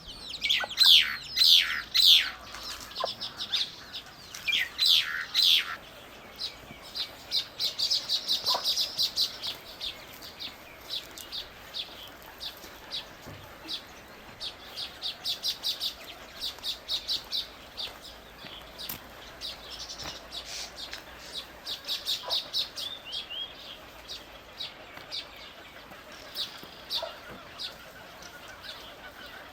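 Birds chirping: a steady stream of short, high chirps, opening with several loud calls that sweep down in pitch over the first six seconds.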